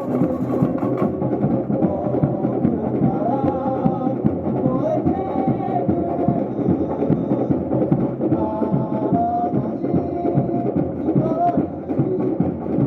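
Samba music: a fast, dense percussion groove with a melody line over it, the team's samba theme song.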